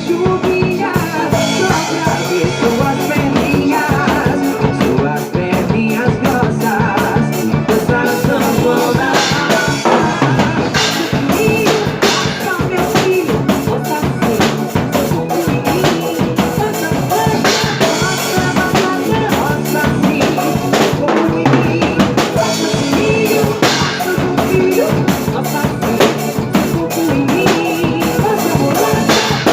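Drum kit played to a forró song, with bass drum, snare and rimshots keeping a steady beat over the band's recorded music.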